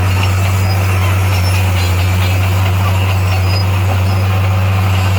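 Diesel engine of a Komatsu D58A bulldozer running steadily, a deep even hum with no change in speed.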